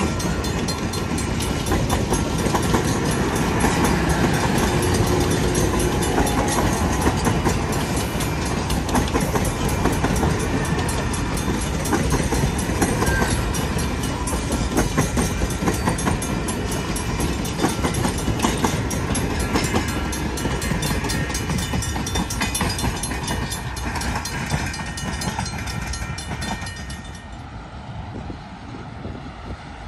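Napa Valley Wine Train rolling past close by: a steady rumble of the cars, with the wheels clicking over rail joints. It falls away near the end.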